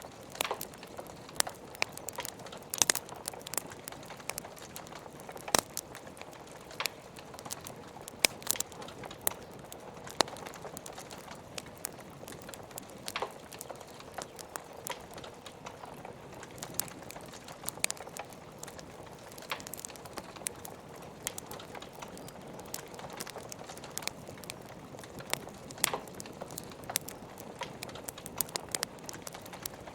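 Wood fire crackling in a fireplace, with irregular sharp pops and snaps over a steady hiss of rain.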